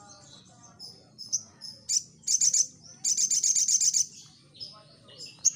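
Crimson sunbird (sogon) singing in full voice: high, rapid chattering trills broken by thin whistled notes. The longest trill comes about three seconds in and lasts nearly a second.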